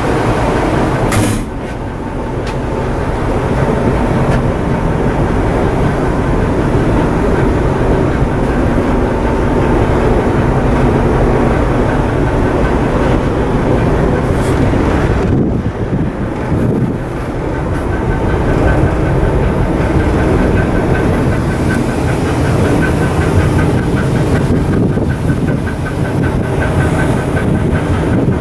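Coastal cargo ship's diesel machinery running steadily under way on sea trial, a loud dense rumble with a rhythmic beat; it changes abruptly about a second in and again about halfway through.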